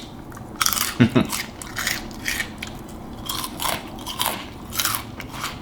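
Close-up chewing of noodles coated in crushed Flamin' Hot Cheetos: a string of short, irregular wet crunches and mouth clicks.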